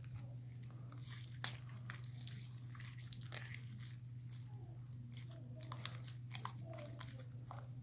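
Borax slime being kneaded and stretched by hand: faint, irregular sticky crackles and clicks.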